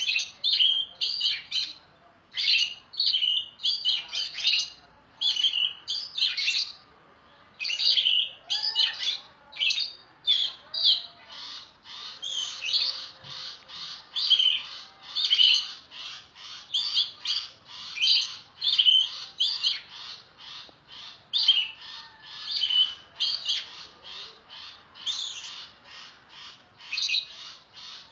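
Oriental magpie-robin (kacer) in full song: a loud, unbroken run of short, sharp whistled and scratchy phrases, several a second, growing a little quieter in the second half.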